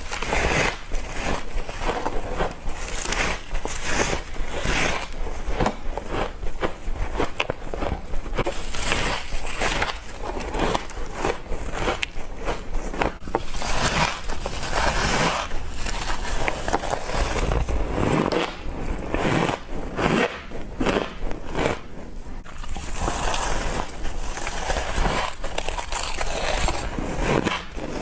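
Mouth biting and chewing frost, with dense, steady crunching and crackling.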